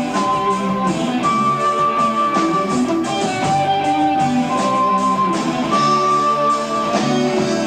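Italian progressive rock band playing live on an amateur tape recording: a lead line of long held notes over guitar, bass and drums.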